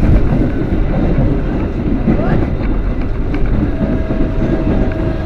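Passenger train carriage running on the rails, heard from inside: a loud, steady rumble. A steady high tone comes in about four seconds in.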